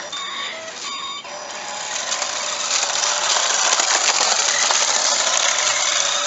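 Toy RC police car driving: its small electric motor and plastic gears whir steadily, growing louder over the first few seconds. Short electronic siren tones from the toy's speaker sound in the first second.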